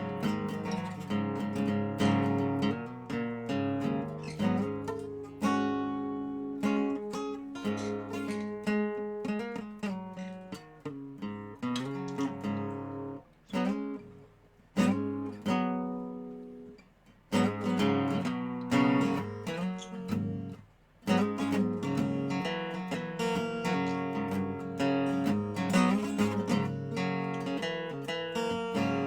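Dobro resonator guitar played solo, a run of plucked notes and strummed chords with a few short pauses in the middle.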